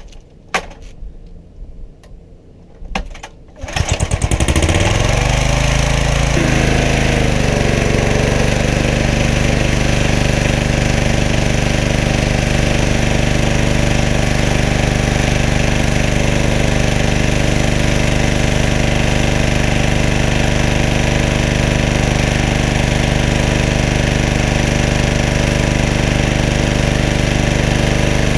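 Pressure washer's small engine starting about four seconds in after a few short knocks, its pitch settling over the next few seconds, then running steadily while the newly fitted pump is tested.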